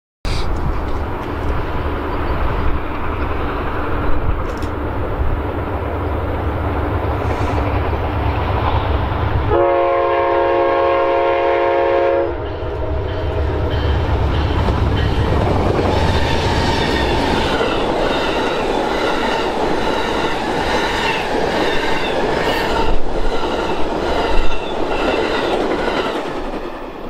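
Train passing close by with a steady heavy rumble. Its air horn sounds one chord for about three seconds, about ten seconds in. After that the cars roll past with a rhythmic clickety-clack.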